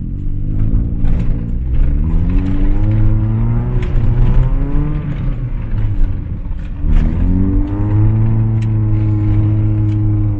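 Mazda B2200 pickup with a swapped-in Kia Sportage engine, driving under acceleration. The engine's pitch climbs, falls away about six to seven seconds in as it changes gear, then climbs again and holds steady.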